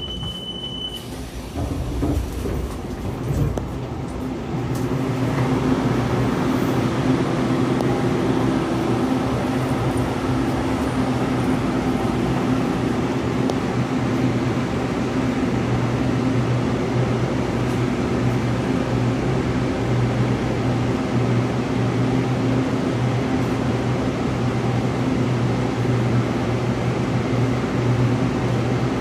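Steady hum of an EMU800 commuter train standing at the platform with its doors open, its air-conditioning and auxiliary equipment running. It has a low drone that grows louder about five seconds in and then holds even. A short high electronic beep sounds at the very start.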